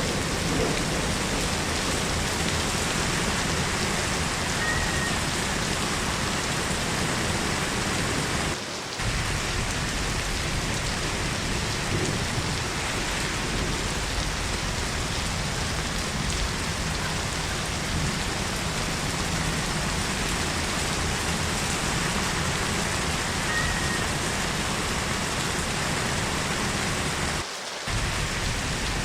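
Heavy rain falling steadily, a dense even hiss that dips briefly twice.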